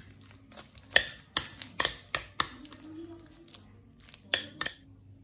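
Kitchen utensils clinking and knocking against dishes: a quick run of about six sharp clinks about a second in, then two more near the end.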